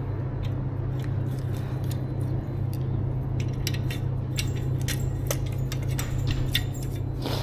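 A steady low hum with scattered light clicks and ticks, more frequent in the second half, like small hard objects being handled.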